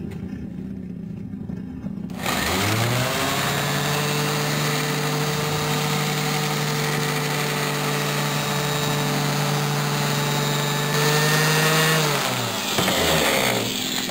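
Random orbital sander spinning up about two seconds in, running at a steady pitch while buffing Blue-Job polish on a chrome motorcycle exhaust pipe, then winding down near the end.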